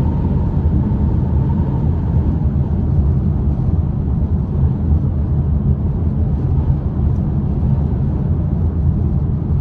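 Steady loud wind and road rush inside the cabin of a Polestar 2 electric car at highway speed, heaviest in the low range. Much of the wind noise comes from a hard-shell rooftop tent mounted on its roof racks.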